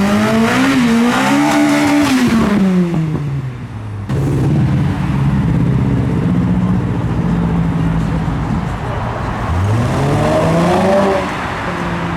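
Car engines revving as cars pull away. Over the first few seconds one engine's note rises and wavers, then falls away. After an abrupt change a steadier engine note holds for several seconds, and near the end another car accelerates with a clearly rising pitch.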